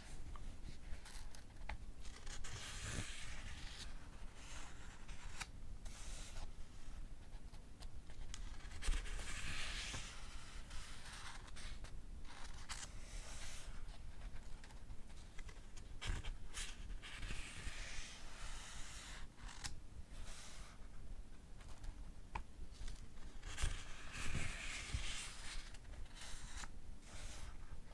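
Pages of a paperback book being turned one after another, each turn a soft papery swish about every three to four seconds, with small rustles and taps of paper between.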